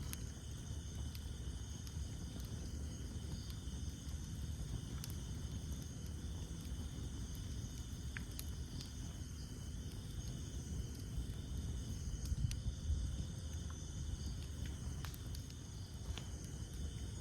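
Wood campfire burning: a steady low rush of flames with sparse, sharp crackles and pops from the burning wood, over a steady high chorus of night insects.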